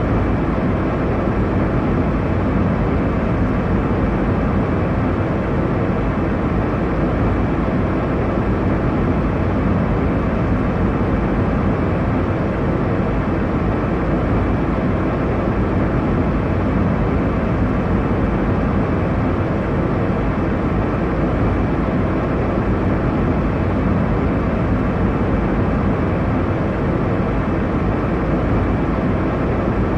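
Steady airliner cabin noise in flight: an even, unchanging rush of engine and airflow noise, heaviest in the low end.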